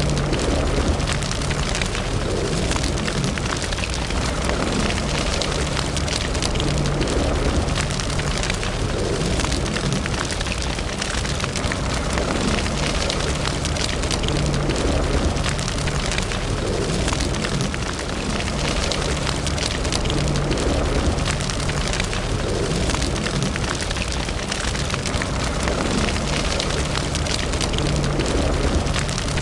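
Wood fire burning in a fireplace: a steady rush of flames and a low rumble under a dense, continuous patter of small crackles and pops.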